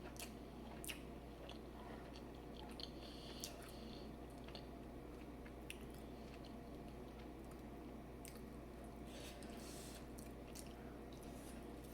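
Faint sounds of a person chewing and biting food, with scattered small clicks and crunches over a steady low room hum.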